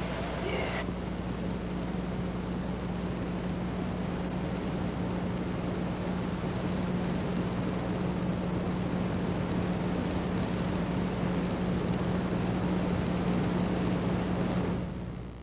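A steady low hum under a hiss of noise, slowly getting louder, then cutting off abruptly near the end.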